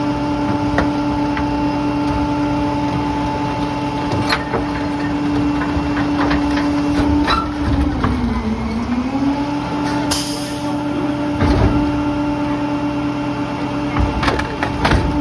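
Garbage truck's diesel engine running steadily, its pitch sagging briefly about eight seconds in and then recovering. A short burst of air hiss comes about ten seconds in, and scattered knocks of debris are heard.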